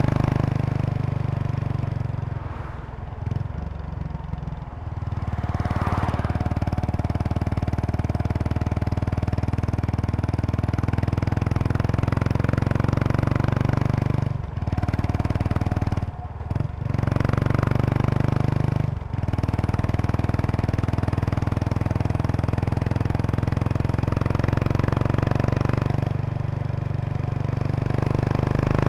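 Exhaust note of a 2003 Kawasaki Estrella RS's air-cooled single-cylinder engine, fitted with an aftermarket Yamato muffler, heard while the motorcycle is being ridden. The note runs steadily, eases off for a couple of seconds early on, and drops out briefly a few times around the middle.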